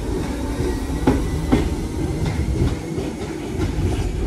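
Passenger train running past a station platform: a steady low rumble, with the wheels clicking over rail joints every so often.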